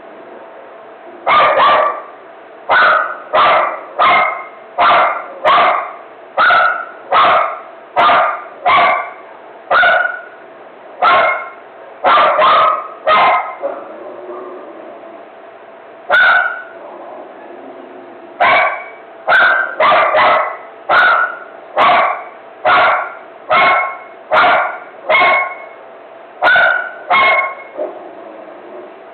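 Dog barking in a frenzy: about twenty-eight loud, sharp barks at roughly one a second, with a short pause midway.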